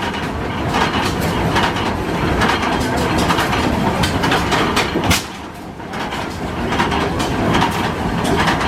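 1908 Hart-Parr 30-60 tractor's slow-turning two-cylinder engine running, its exhaust going off in heavy, uneven beats, with one sharper crack about five seconds in.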